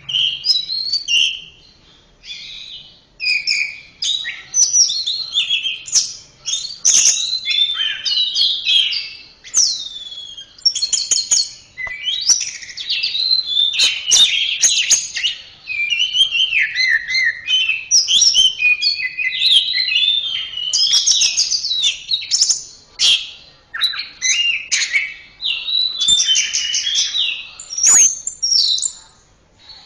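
Orange-headed thrush (anis merah) singing a long, varied song of quick sliding whistles and chattering notes, phrase after phrase with only brief pauses, and a few sharp clicks among them.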